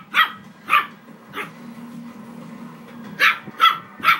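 Morkie (Maltese–Yorkie mix) puppy yapping in short, sharp barks: three in the first second and a half, then a pause, then three more near the end.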